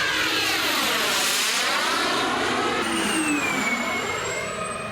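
Turbine-powered RC model jet making a fast low pass: its rushing noise swells and peaks about a second and a half in, and a high whine drops in pitch as it goes by.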